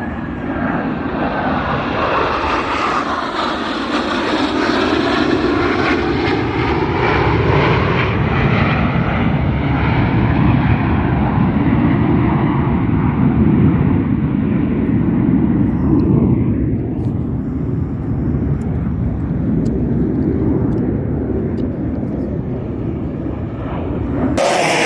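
Jet aircraft roaring past overhead: a loud, rushing roar that swells a few seconds in and then slowly fades as it moves away, with a sweeping, phasing quality through it. Near the end the sound cuts abruptly to a fresh burst of aircraft roar.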